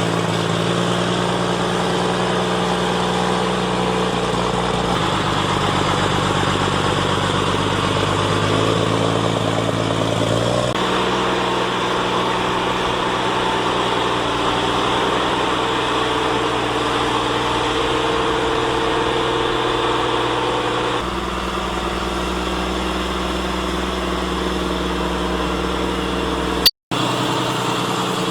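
Claas Xerion 3300 tractor's diesel engine running steadily while working a grass silage pile, its engine note shifting a few times as it changes speed. A sharp click and a split-second dropout come near the end.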